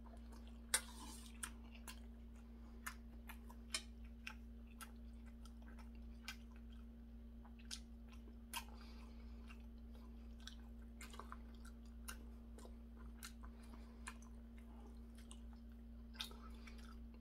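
A man quietly chewing a mouthful of seonji gukbap (ox-blood soup with rice), with scattered small clicks and mouth noises over a steady low hum.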